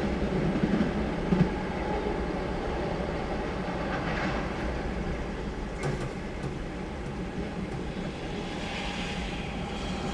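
Loaded oil tank cars of a long freight train rolling past, steel wheels clacking over the rail joints, the rumble slowly easing off. A sharp click about six seconds in.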